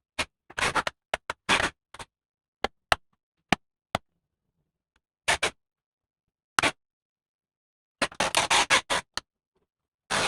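Laptop parts being handled during a screen replacement: short scraping and rustling noises, then several sharp single clicks, and a denser run of scraping and clicking near the end.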